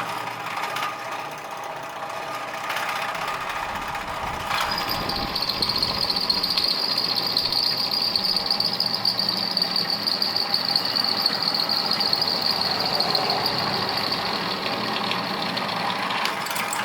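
Old drill press running and drilling a hole through a metal bracket, with a high steady squeal from the bit cutting from about four and a half seconds in until near the end.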